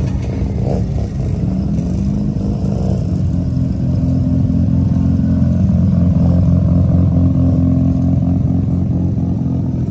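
A car engine running, its pitch rising over the first few seconds and then holding fairly steady.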